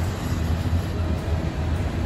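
Freight train's tank cars and flatcars rolling past on the rails: a steady low rumble.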